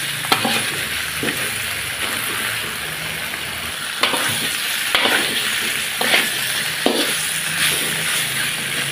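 Gluten mock-meat chunks frying in oil and spice paste in a wok, sizzling steadily, while a metal spatula stirs them with scrapes and knocks against the wok every second or so.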